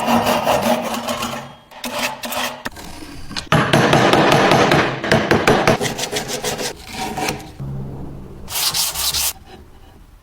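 Rough scraping and rasping strokes on a metal cheese grater, in several short clips cut together, with a quick run of strokes in the middle. It quiets down near the end.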